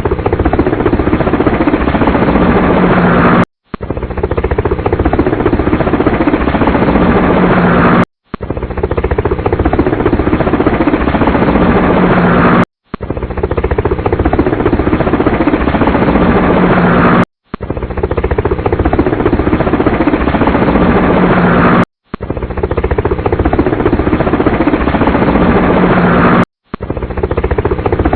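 Helicopter engine and rotor sound running steadily with a low drone, played as a loop that cuts out briefly and starts over about every four and a half seconds.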